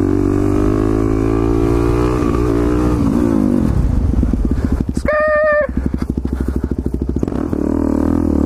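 Motorcycle engine running, its pitch slowly rising and then falling off, then chugging at low revs with a short steady tone about five seconds in, before revving up again near the end.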